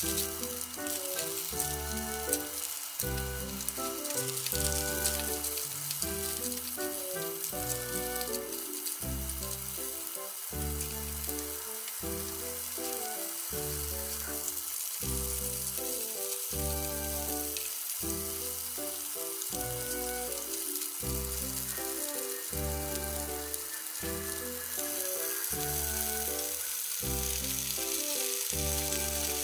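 Food frying in a frying pan: potato, sausage and salmon sizzling in foil cups, a steady hiss with fine crackles that grows louder near the end. Background music with a regular bass beat plays over it.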